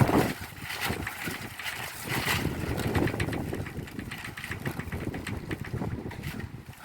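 Rain pattering on a tiled roof in strong, gusting wind, the gusts rumbling on the microphone. The wind eases and the sound dies down toward the end.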